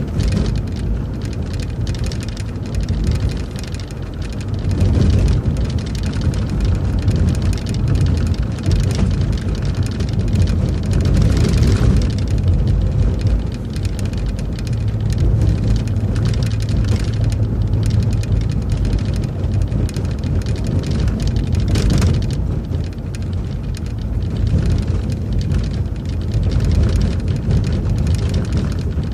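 City transit bus driving steadily: a continuous low engine hum with road and tyre noise, and a few brief rattles or knocks around 11 and 22 seconds in.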